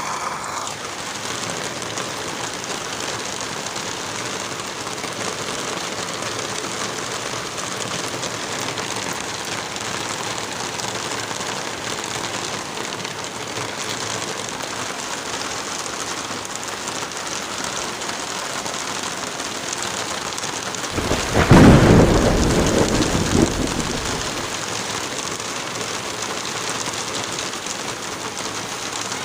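Steady heavy rain with one thunderclap about twenty seconds in, a loud low rumble that is the loudest sound here and fades over about three seconds.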